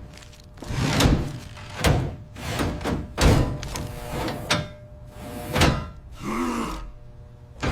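A series of heavy thuds, about five of them, roughly a second apart, each with a deep low boom. Near the end there is a short creak with a wavering pitch.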